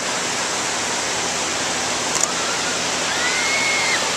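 Steady wash of ocean surf on the beach. Faint high calls rise and hold in the second half, and there are two brief clicks.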